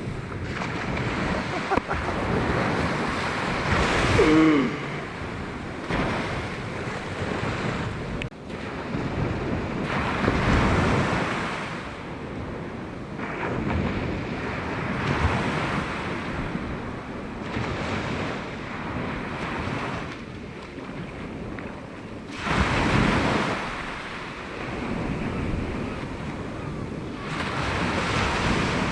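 Sea waves breaking and washing on a beach, swelling and fading every few seconds, with wind buffeting the microphone. The loudest surges come about 4, 10 and 23 seconds in.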